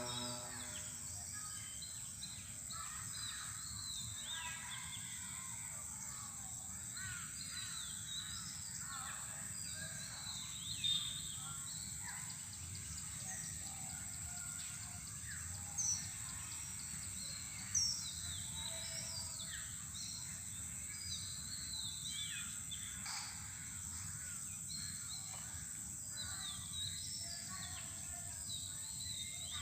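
Birds chirping and calling in many short, quick notes, with a few louder calls now and then, over a steady high insect-like hiss.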